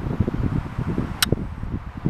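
Wind buffeting the microphone in irregular gusts, a low rumbling flutter, with one sharp click about a second in.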